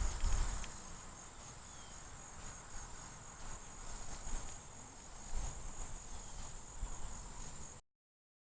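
A cricket chirping in a steady, evenly pulsing high trill, with faint low rumbling underneath. The sound cuts off suddenly near the end.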